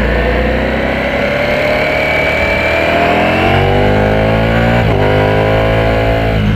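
Ducati Panigale V4S's 1103 cc V4 engine accelerating under load, its pitch climbing steadily through the gear. It drops at an upshift about five seconds in, then climbs again and shifts once more at the very end.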